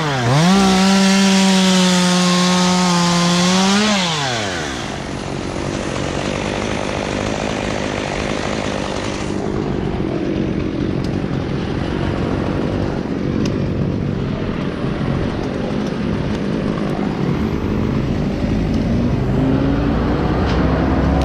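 Two-stroke chainsaw revved up and held at full throttle for about four seconds, then released so its pitch falls away. A steady rushing noise with a few sharp clicks follows, and another engine's pitch rises near the end.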